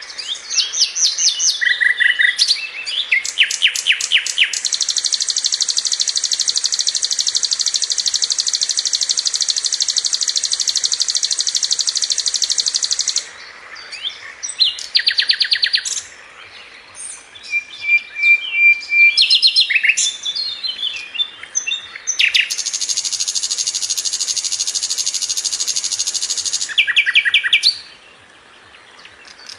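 Sikatan londo (brown-chested jungle flycatcher) singing in quick high chirps and short phrases, broken by two long, very fast trills of several seconds each: one from a few seconds in until about halfway, and another shortly after the two-thirds mark.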